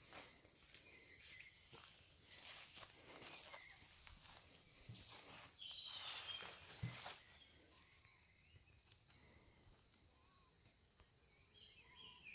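Faint, steady high-pitched chirring of insects such as crickets, with scattered light scuffs and clicks over the first half and one sharper knock about seven seconds in.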